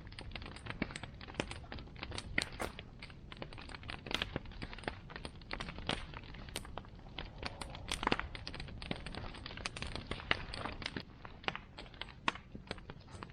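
Bonfire burning, its wood crackling and popping in dense irregular snaps of varying loudness over a low steady rumble.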